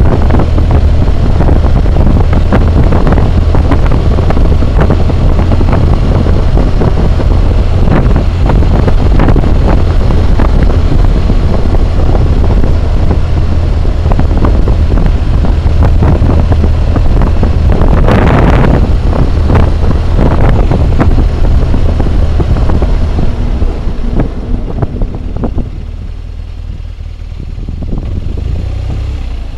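Wind roaring and buffeting over a helmet-mounted camera's microphone on a moving BMW motorcycle, with a deep steady drone underneath. The roar swells briefly past the middle and drops off near the end.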